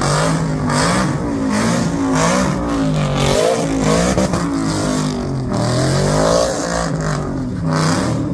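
A car engine revved hard again and again, its pitch swooping up and falling back roughly every second, with a loud hiss over it.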